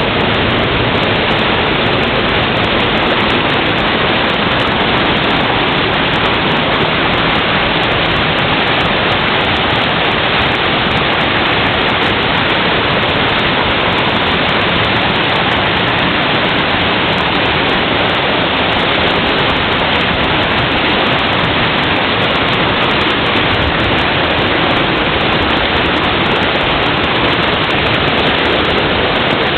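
Waterfall with falling, cascading water making a steady, loud rushing sound.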